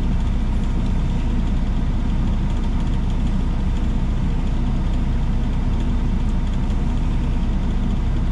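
Semi truck's diesel engine running steadily at low revs, a constant low rumble with no change in speed.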